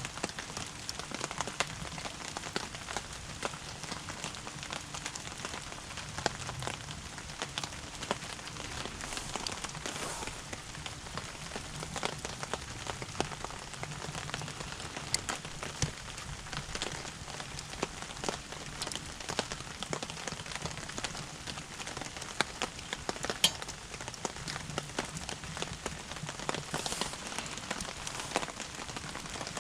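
Firewood burning and crackling, with a steady run of small snaps and a few louder pops.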